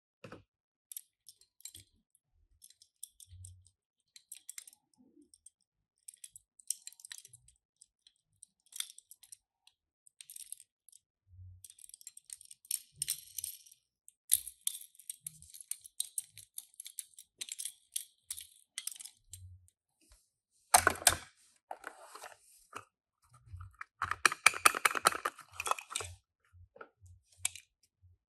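Tomica die-cast toy cars and plastic toy parts being handled: scattered light clicks and taps, a stretch of soft rustling, then two louder clattering rattles, one about two-thirds of the way through and another near the end.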